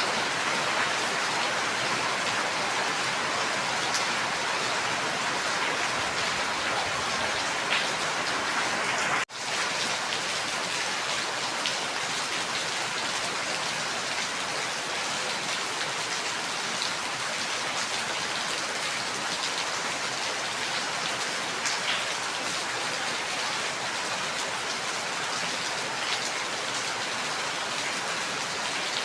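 Steady heavy rainfall, a dense even hiss with individual drops ticking through it. About nine seconds in the sound drops out for a split second, then carries on unchanged.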